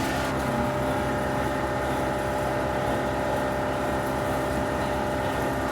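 A steady mechanical hum of a running motor, made of several held tones, unchanging throughout.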